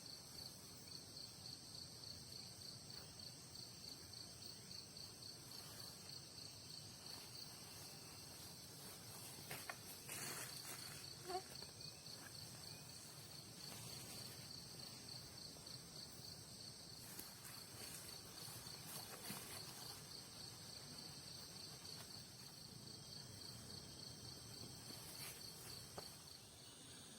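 Night insects, crickets among them, chirping faintly: one calls in an even, rapid pulse, over a steady high buzz from others. A few faint clicks or rustles come partway through.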